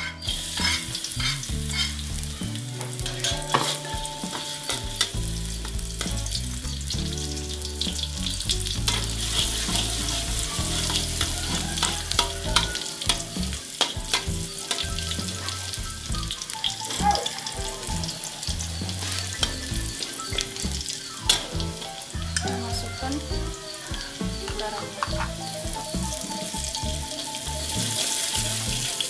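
Chopped garlic sizzling and crackling in hot oil in a metal wok. The sizzle starts as the garlic goes in, and the garlic is stirred with a spatula.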